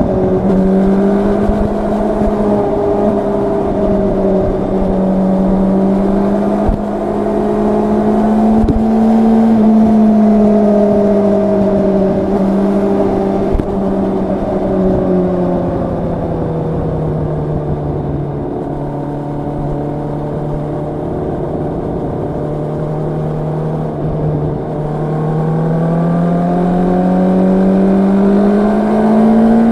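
Yamaha R1's crossplane inline-four engine and exhaust running under way, revs held steady at first, easing down past the middle, then climbing again near the end.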